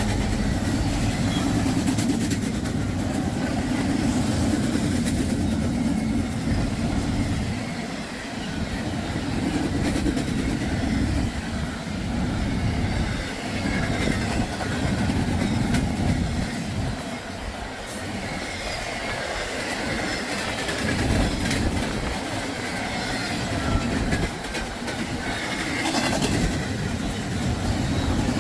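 Freight train rolling past, steel wheels clacking over the rails with a heavy rumble whose loudness swells and eases every few seconds as the cars go by.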